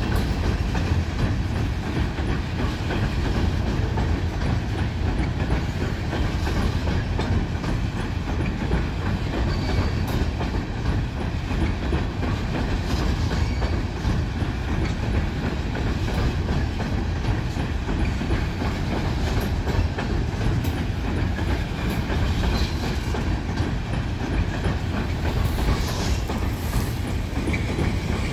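Union Pacific oil train's tank cars rolling in reverse across a steel girder bridge: a steady rumble of steel wheels on the rails.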